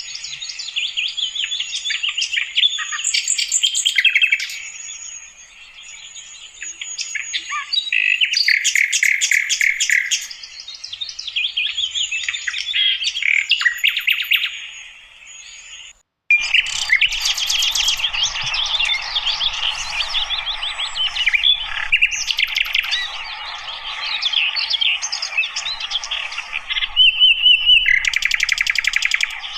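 Sikatan londo flycatcher singing a long, varied twittering song of rapid high notes, with a sudden break about halfway through.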